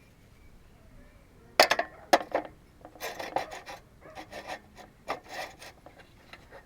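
Two sharp clicks, then a run of short scraping and rubbing strokes, as of gear or wood being handled and scraped.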